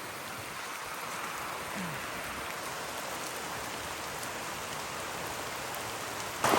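Steady heavy rain falling. Just before the end the sound suddenly gets much louder.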